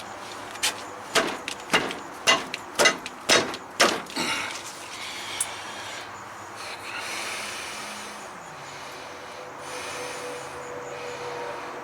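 A quick run of about eight sharp bangs, roughly two a second, that stops about four seconds in.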